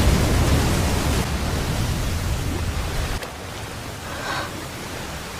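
Sound effect of a huge chain of paper-bomb explosions: a loud rumbling blast starts suddenly, runs for about three seconds, then falls back to a steady hiss.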